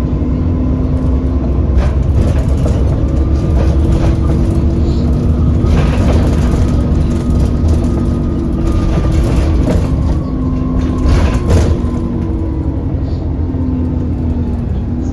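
Alexander Dennis Enviro400 double-decker bus running, its diesel engine giving a steady drone that shifts slightly in pitch, with several short knocks over it: the knocking sound that the bus is noted for.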